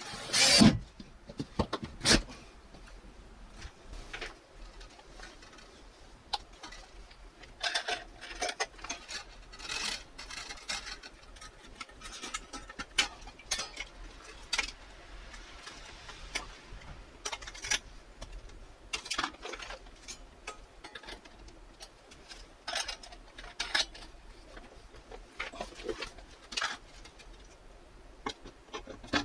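Scattered clicks, knocks and rustles of hand work with tools and parts, with a loud knock about half a second in and another about two seconds in.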